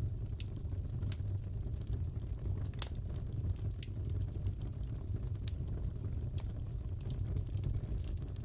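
Crackling fireplace fire: a steady low rumble with sharp, irregular pops and snaps, one of the louder pops about three seconds in.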